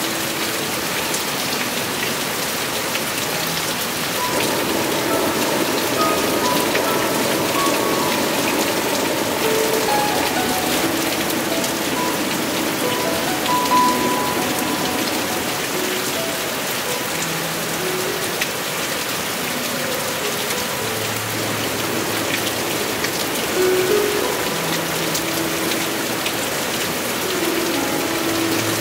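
Heavy monsoon rain falling steadily, a dense even hiss of drops hitting surfaces.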